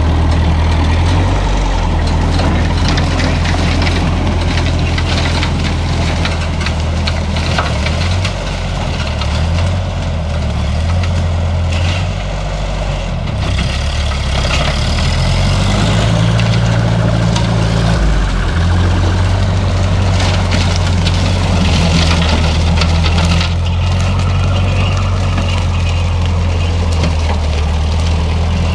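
Old Ferguson tractor engine running steadily, its pitch dipping and shifting for several seconds in the middle before settling again.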